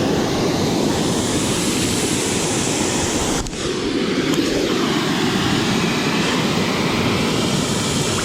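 Waterfall and creek water rushing in a steady roar, with a brief dip about three and a half seconds in.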